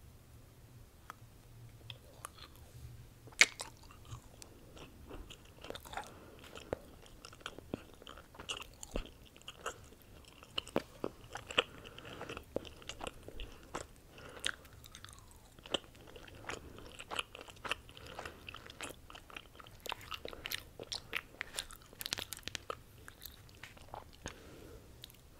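Biting and chewing a chocolate bar: sharp cracks as pieces break off, the loudest about three seconds in, then crunching and mouth sounds as it is chewed.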